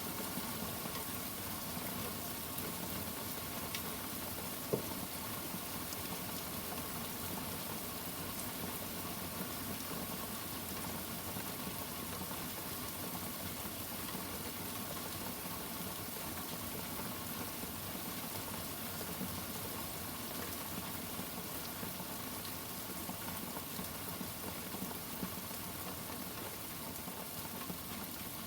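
Steady rain falling, an even hiss with a few scattered drips and one sharper tick about five seconds in.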